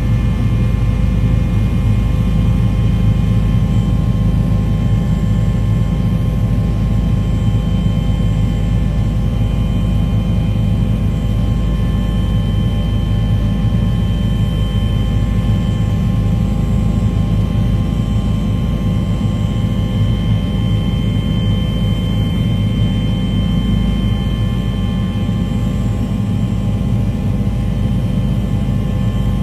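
Aircraft engine running steadily, a constant low rumble with several steady whining tones above it.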